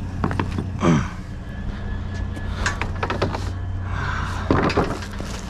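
Junk clattering and knocking in three short bursts as someone rummages through a dumpster, over the steady hum of an idling vehicle engine.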